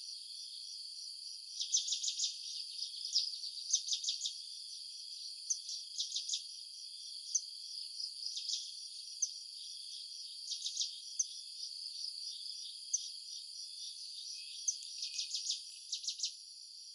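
Steady high-pitched chorus of insects such as crickets, overlaid with clusters of short sharp chirps every second or two.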